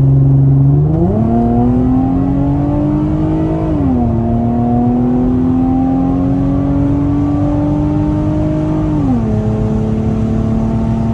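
2007 Infiniti G35 Coupe's 3.5-litre V6, through its Motordyne aftermarket exhaust, accelerating at full throttle. The engine note climbs sharply about a second in, then rises steadily and drops twice as the car shifts up through the gears.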